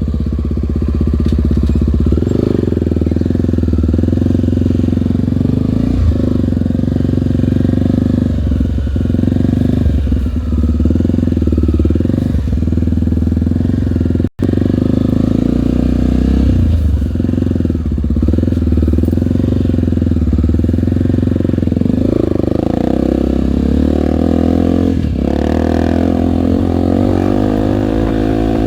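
Air-cooled single-cylinder Honda trail motorcycle being ridden, its engine note rising and falling with the throttle and revving up near the end. The sound cuts out for an instant about halfway.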